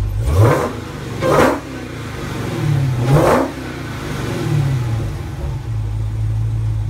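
2016 Dodge Challenger SRT Hellcat's supercharged V8 revved in a few sharp blips with loud exhaust blasts, the engine note rising and falling, then settling back to a steady idle near the end.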